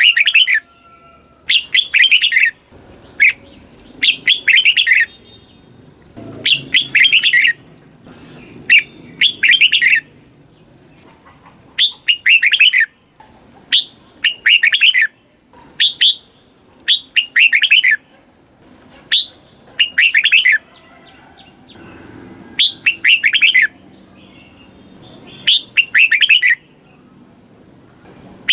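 Red-whiskered bulbul singing: short, bright phrases of a few quick notes, repeated every one to two seconds.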